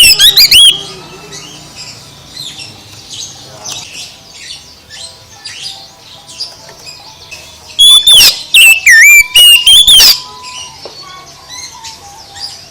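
Oriental magpie-robin (kacer) singing loud, rapid whistled phrases of sweeping notes, one burst at the start and another from about eight to ten seconds in, with softer chirps in between.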